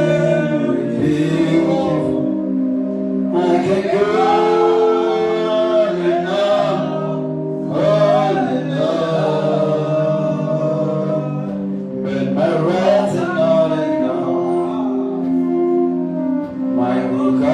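Gospel worship singing over sustained keyboard chords, with a lead voice and a choir.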